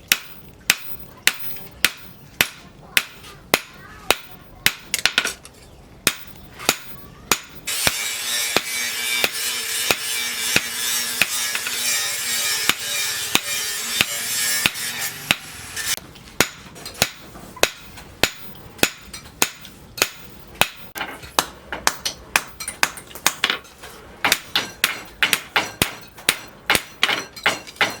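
Hand hammer striking steel on an anvil in forging a knife blade: a steady run of ringing blows, a little over one a second at first and quickening to two or three a second in the second half. From about eight seconds in, a loud steady hiss runs under the blows for about eight seconds.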